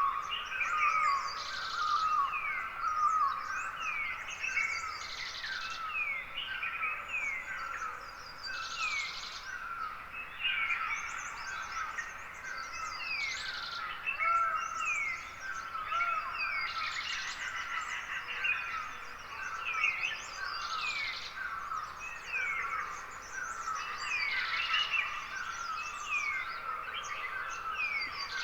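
Dawn chorus of Himalayan forest birds: many short, falling chirps overlap continuously. A short buzzy rasp recurs every three to four seconds.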